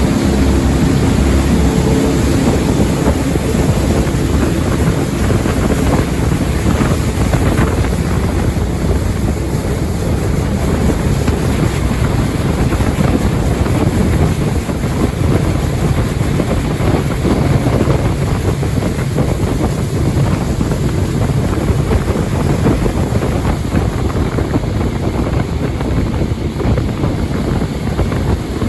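Jet boat running on a river: a steady, loud rush of engine, water and wind buffeting the microphone, the engine's pitched note clearest in the first few seconds.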